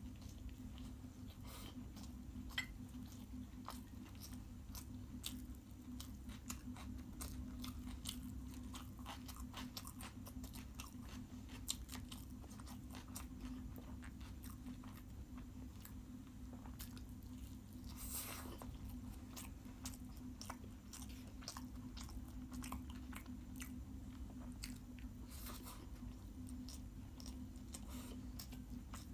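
A person chewing a mouthful of chicken biryani with Maggi noodles, eaten by hand: many small wet mouth clicks and smacks, over a steady low hum.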